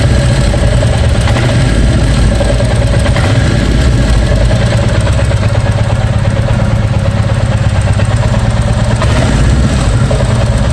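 A 2023 Royal Enfield Bullet 350's single-cylinder engine running, throttle opened and released so it drops back toward idle, giving an odd, irritating noise as it settles. The owner blames an engine defect that a replaced spare part did not cure.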